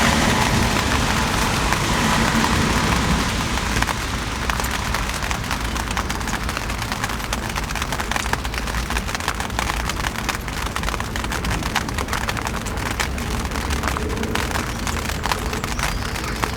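Mercedes-AMG C63 engine running just after a cold start, louder for the first few seconds and then settling to a steady rumbling idle with a crackly exhaust note.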